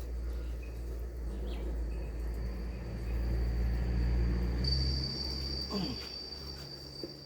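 An insect, of the cricket kind, makes a steady high-pitched trill that grows louder about two-thirds of the way through. Under it runs a low rumble that fades near the end.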